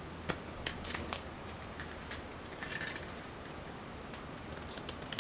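Playing cards being handled: a few short, sharp snaps and taps of the cards in the first second or so, then softer sliding and rustling of the cards.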